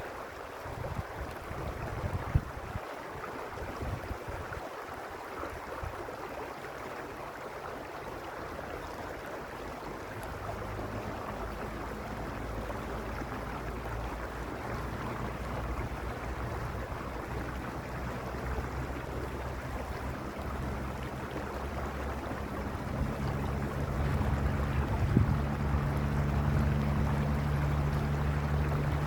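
A mountain stream running steadily over rocks, with wind buffeting the microphone in the first few seconds. A low, steady engine hum fades in about a third of the way through and grows louder toward the end.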